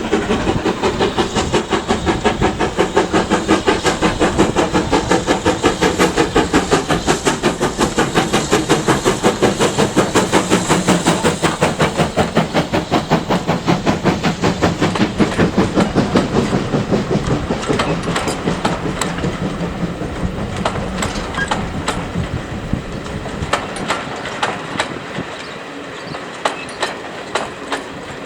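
Steam train running past with rapid, even exhaust beats that fade after about two-thirds, then scattered sharp clicks of wheels crossing rail joints near the end.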